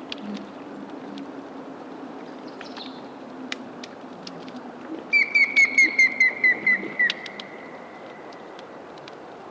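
Grey-headed woodpecker song, about halfway through: a run of about a dozen whistled notes, each falling in pitch. Under it, melting lake ice gives a low steady hum and scattered sharp clicks.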